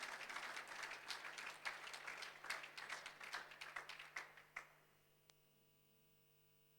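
Audience applauding, fairly faint, stopping abruptly about four and a half seconds in and leaving only a faint steady electrical hum.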